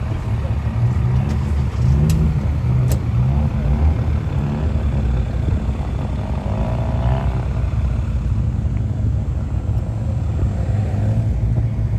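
Car engines running with a deep low rumble; one engine's pitch climbs and drops about one to three seconds in, as with a short rev. Two sharp clicks are heard at about two and three seconds.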